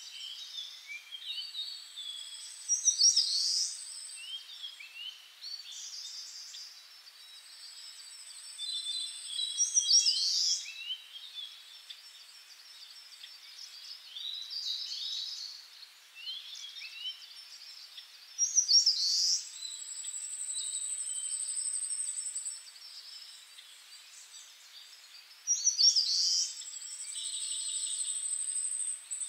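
Songbirds chirping and calling, with a long, even, very high trill four times, each starting with a sharp rising note.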